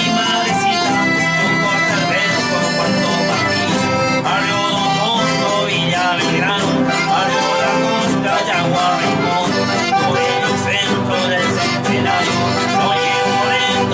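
Accordion playing an Argentine folk tune, with sustained chords and melody running on without a break.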